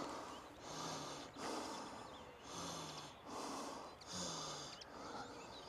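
A man breathing steadily while walking, faint, regular in-and-out breaths, some with a slight hum of voice on the out-breath.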